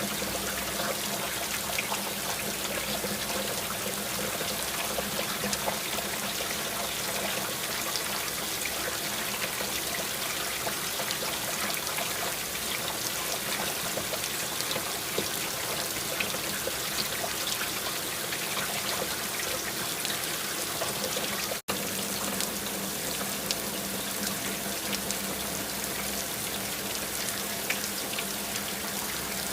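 Steady rain: an even hiss of water with many small drops ticking through it. It cuts out for an instant about two-thirds of the way through.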